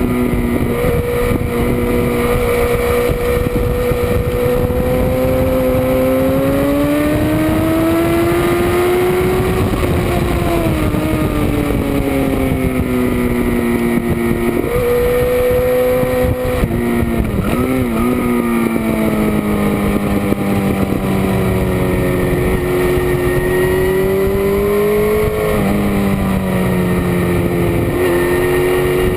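Motorcycle engine running hard on a race track, its note rising and falling with the throttle, with a few sudden jumps in pitch at gear changes.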